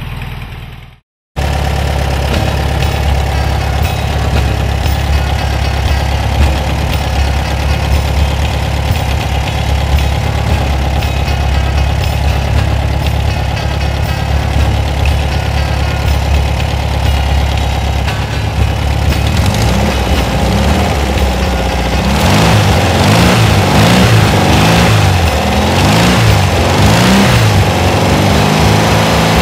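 Rebuilt VW Beetle air-cooled flat-four, bored out to 1641cc, running on a bench stand with its muffler and twin tailpipes fitted: a steady idle at first, then from about two-thirds of the way through the revs rise and fall as the throttle is worked at the carburetor.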